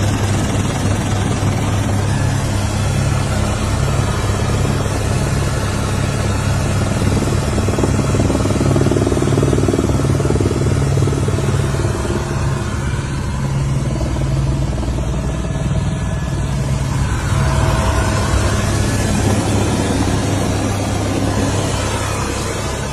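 A vehicle engine running steadily under a loud, even rushing noise.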